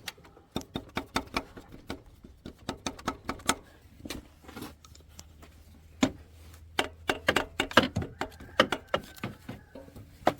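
Sharp metal taps in quick runs: a tool tapping on the starter motor of a 2013 Honda Accord, done to free a starter suspected as the cause of an intermittent no-crank.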